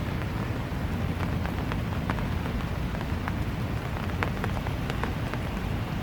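Steady rain falling, with a constant hiss and many separate drops ticking on nearby surfaces.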